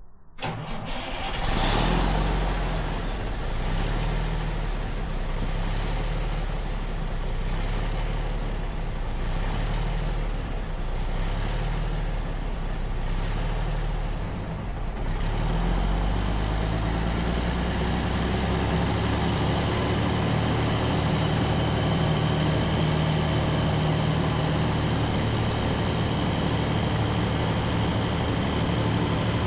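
Truck engine running steadily, its note changing about halfway through.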